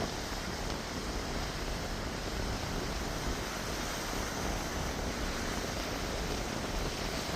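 Steady rushing noise of a rainstorm, with wind and falling or running water and no separate events.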